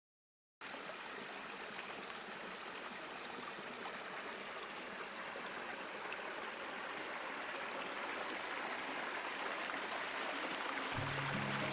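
River water flowing steadily. It fades in after a moment of silence and grows slowly louder. Soft music comes in near the end.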